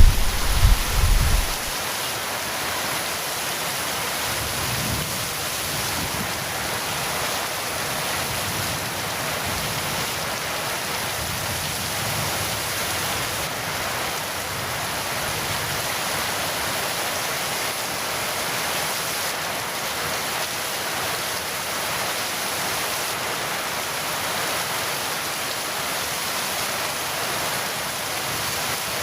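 Heavy rain falling in a steady, even hiss. A low rumble of thunder is dying away at the start, gone within about two seconds.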